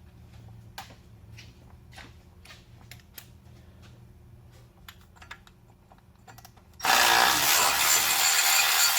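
Light metallic clicks of a socket and extension being fitted onto a bolt. About seven seconds in, a Milwaukee 12V cordless ratchet starts and runs loud and steady, spinning out a crusty water-pump bolt.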